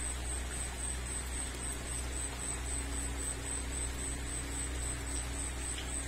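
Steady hiss of rain falling on a garden, under a constant low hum, with a thin high tone pulsing several times a second throughout.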